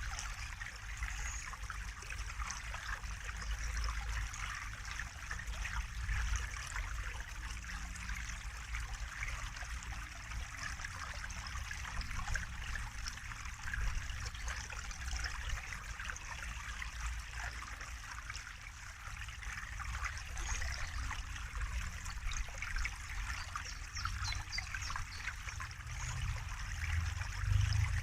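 Running water trickling steadily over a low rumble.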